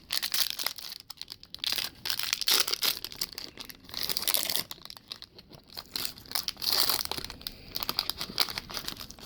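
A foil trading-card pack being torn open and crinkled by hand, in irregular bursts of crackling.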